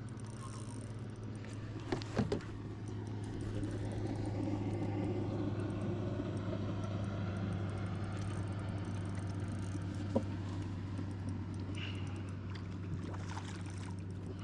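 Steady electric hum of the kayak's trolling motor running, with water noise and a couple of short knocks against the hull.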